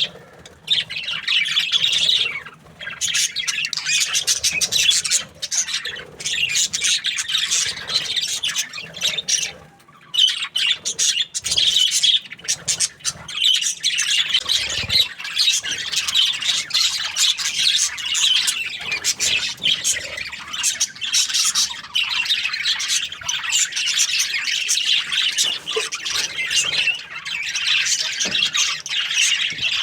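A flock of budgerigars chirping and chattering, many calls overlapping with harsh squawks, with a few brief lulls in the first ten seconds.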